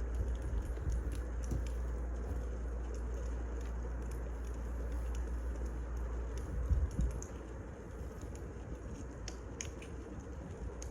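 Wood fire burning, with scattered small crackles and pops over a steady low rumble. A louder dull thump comes about seven seconds in.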